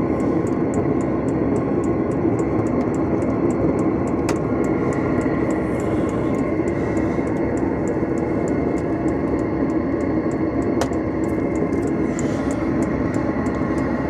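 Diesel heater running with a steady hum, while its fuel dosing pump ticks regularly a few times a second as it draws fuel from the van's diesel tank.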